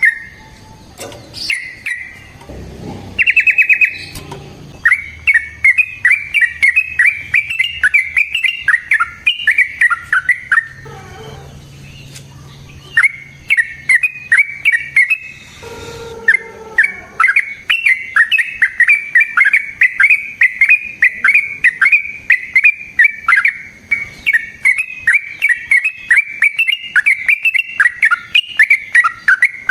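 Yellow-vented bulbul (trucukan) singing long, fast, rolling phrases of bubbly, chattering notes, broken by a few short pauses. A faint, rapid high-pitched ticking runs above the song.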